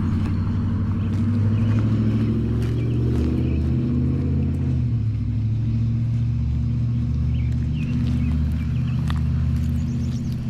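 A motor vehicle's engine running close by, a low steady hum whose pitch shifts slightly around the middle, with faint footsteps on pavement.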